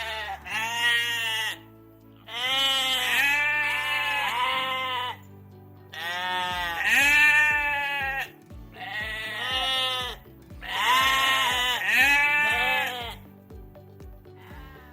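Sheep bleating over background music: a run of wavering bleats, in groups of one to three, with short pauses between them.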